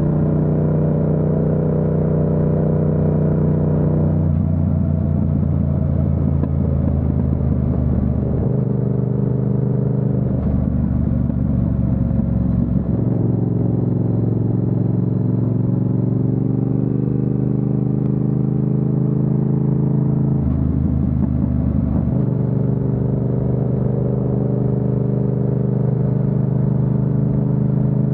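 Yamaha MT-07's parallel-twin engine running on the move. It holds steady revs, with rougher, off-throttle stretches and changes in pitch between them, and climbs slowly in revs through the middle.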